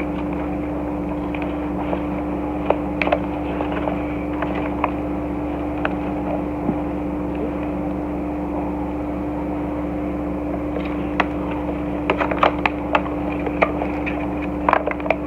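Scattered sharp clicks and crackles of plastic toy packaging and cardboard being handled and pried at, coming thick and fast near the end. Under them runs a steady machine hum with one strong fixed tone.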